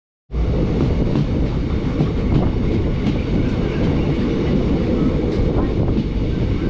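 Passenger train running along the track, loud and steady, with faint clicks of the wheels over the rails. It cuts in suddenly just after the start.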